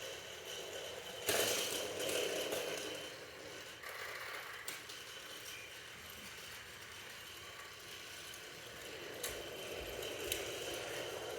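Train carriage running, with a steady rattling noise, a sudden loud rush a little over a second in, and a few sharp clicks near the end.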